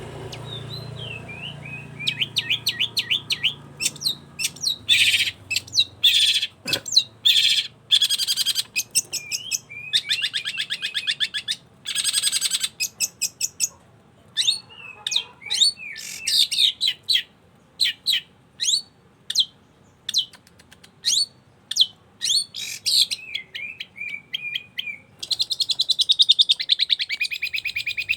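Long-tailed shrike (cendet) singing busily: a long string of quick chattering trills, rattles and short sharp notes with brief gaps. It runs into a dense, continuous buzzy rattle over the last few seconds.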